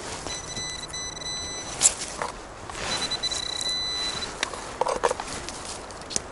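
Metal detector sounding a steady high tone for about a second and a half, then another shorter tone about three seconds in, over crunching and snapping footsteps in forest leaf litter and a steady background rush.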